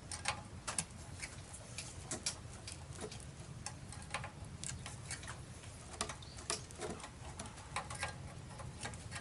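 Irregular light clicks and taps of hand tools and small metal parts being handled during the work, a few each second.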